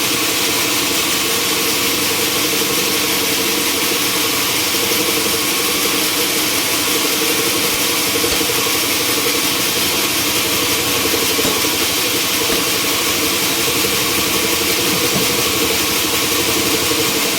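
Sawmill machinery running steadily: an engine's constant drone with a strong high hiss over it, unchanging throughout.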